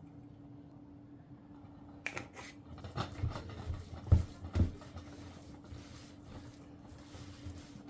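Kitchen handling sounds: a run of light knocks and clatters with two louder thumps about four seconds in, over a faint steady hum.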